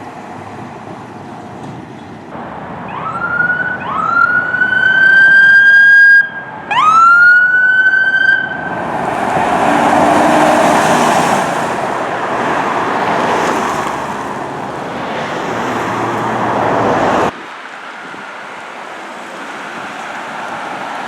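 Fire truck siren giving three short rising whoops that level off, then the truck's engine and road noise rushing past. The noise cuts off abruptly near the end.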